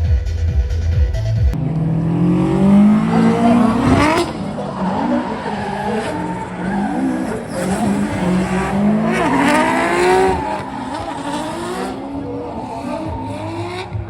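Dance music cuts off about a second and a half in. A drift car's engine then revs up and down again and again, with tyre squeal.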